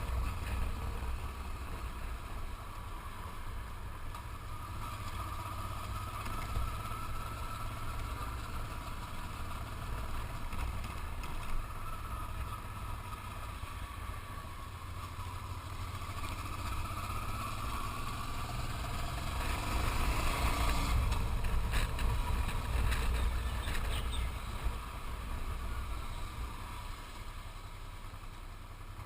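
Riding on a motorcycle: wind buffeting the microphone over the motorcycle engine running, its pitch drifting up and down with speed. It gets louder with some clatter about twenty seconds in.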